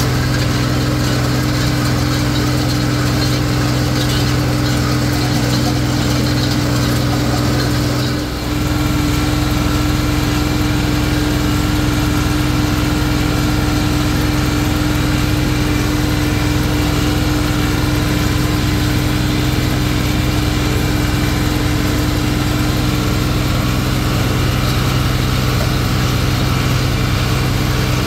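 Tractor engine running steadily under load, with a brief dip about eight seconds in.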